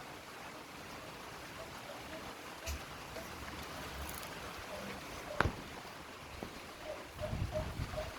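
Faint, short, repeated bird calls over a steady outdoor hiss, with a single sharp click about five and a half seconds in and wind rumbling on the microphone near the end.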